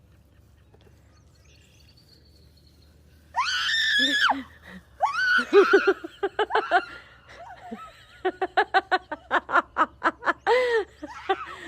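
A loud, high-pitched scream about three seconds in, followed by a person laughing in rapid bursts, several a second, through the second half.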